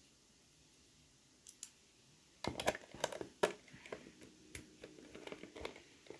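Small clicks and scrapes of a screwdriver working the back screws of a plastic DT830D digital multimeter case, starting about two and a half seconds in after near silence. A cluster of sharp clicks comes first, then lighter, irregular ticks and scrapes.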